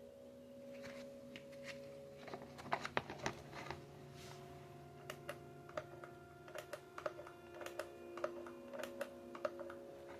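Faint, irregular clicks and taps of hard plastic parts being handled, over a faint steady hum.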